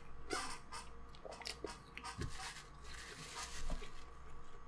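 A person chewing fried fast food, a chicken sandwich and french fries: soft crunches and wet mouth clicks.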